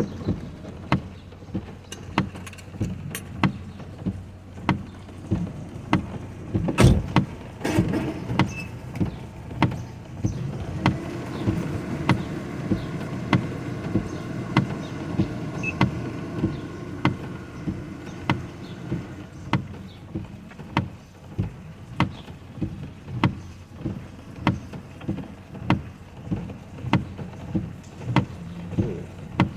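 Inside a car with the engine running: a steady low hum under a regular clicking, about one and a half clicks a second, with one louder knock about seven seconds in.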